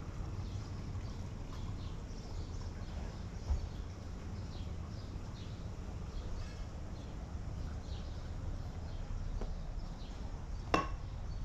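Small birds chirping in short, repeated downward-sliding calls over a steady low outdoor rumble, with a soft bump a few seconds in and a single sharp, ringing clink near the end.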